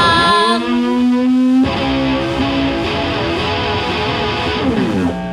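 Live rock band music after the vocals stop: electric guitar holding ringing chords, with a new chord struck about a second and a half in.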